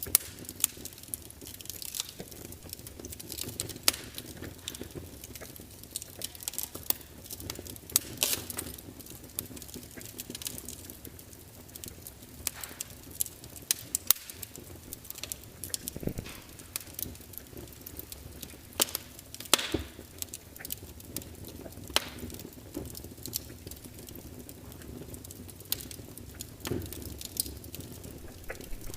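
Wood fire crackling, burning logs popping and snapping at irregular moments over a low steady rush of flame.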